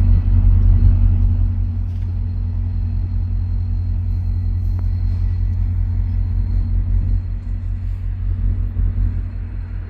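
Diesel locomotive of a VIA Rail passenger train running at close range: a loud, steady low rumble with a faint steady high whine above it.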